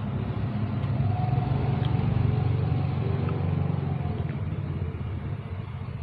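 Persian cat purring steadily close to the microphone: a low, fluttering rumble.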